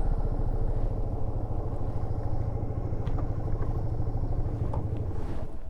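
Yamaha SRV250's air-cooled V-twin idling with an even pulse while the bike stands still, then switched off about five and a half seconds in.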